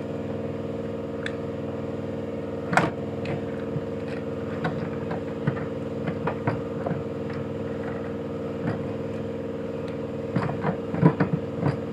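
Intermittent metal clanks and knocks of tools and parts being worked in a minivan's engine bay, a sharp one about three seconds in and a quick flurry near the end, over a steady low mechanical hum.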